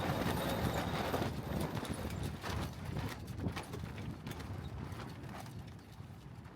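Wind and water noise aboard a small sailboat under way upwind, with irregular knocks running through it; it drops lower over the last couple of seconds.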